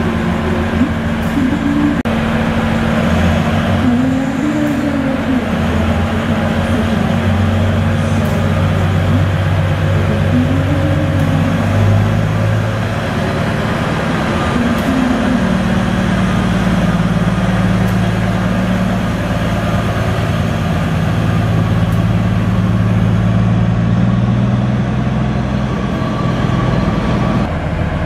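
Cummins QSK45 V12 diesel engine of a KRDE ME201 diesel-electric multiple unit running, heard mostly as exhaust sound: a steady low drone whose pitch shifts now and then, with the note changing near the end.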